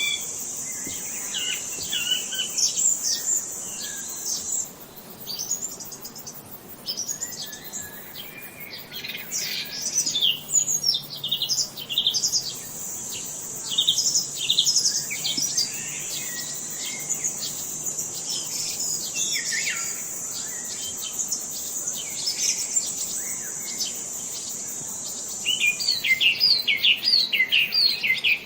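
Several songbirds chirping and singing in quick, overlapping calls, busiest near the end. Under them a steady high-pitched buzz drops out about four seconds in, returns around twelve seconds and stops near the end.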